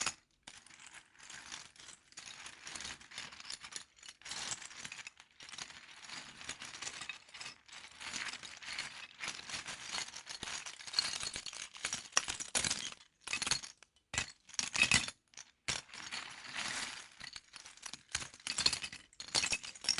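Small plastic LEGO pieces clattering and clicking as they are handled and rummaged through, an irregular run of light rattles and clinks.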